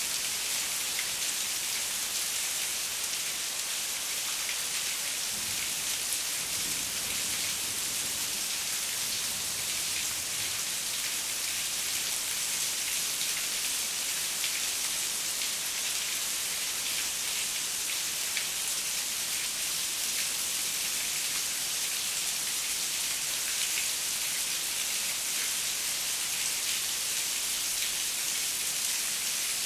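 Heavy rain falling steadily: an even hiss of rain with many small drop impacts on a hard surface.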